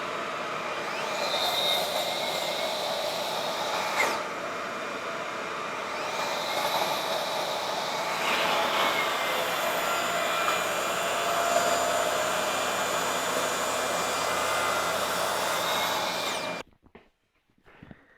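Electric power saw running through a cut in the wooden top panel, a steady whining noise that stops abruptly near the end, leaving near silence.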